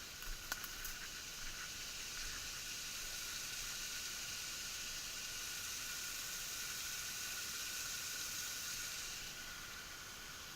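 Steady rushing of a small forest waterfall, an even hiss of falling water, with a few light clicks in the first second.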